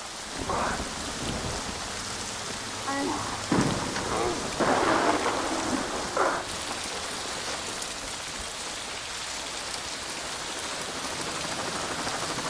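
Heavy rain pouring steadily, with a few short, louder noises in the first half.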